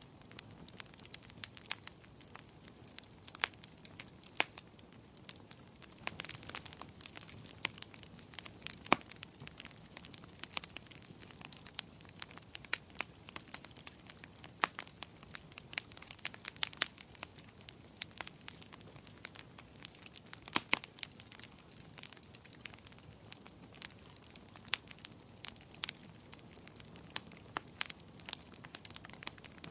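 Wood fire in a fireplace crackling, with irregular sharp pops and snaps, several a second, over a soft steady hiss.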